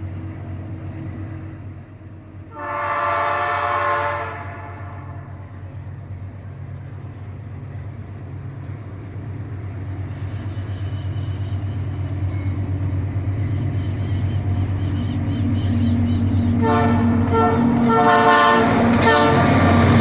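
GE AC44i diesel-electric locomotives running under load as they approach, their low engine drone growing steadily louder. The locomotive horn sounds once about three seconds in and then several times near the end.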